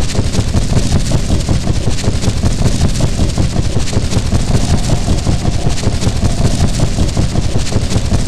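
A train running, a steady dense noise that is heaviest in the low end and does not let up.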